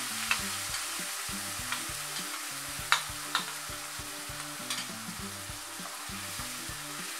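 Ground onion paste sizzling in hot oil with cumin seeds in a nonstick kadai, stirred with a slotted spatula. A handful of sharp clicks and taps stand out over the steady sizzle, the loudest about three seconds in.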